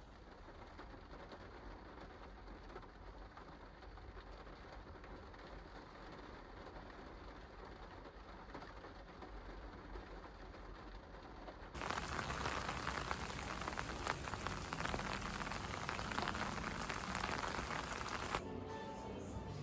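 Steady rain falling on a car. About twelve seconds in, it cuts abruptly to louder, sharper rain, then drops back to the softer sound near the end.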